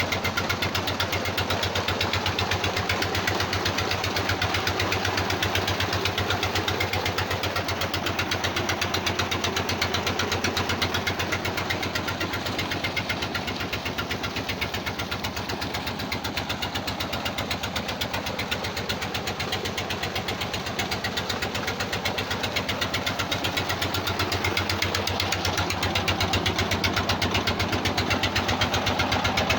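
Old 18 hp diesel engine on a tubewell running steadily, its firing a fast even knock, a little quieter for a while in the middle.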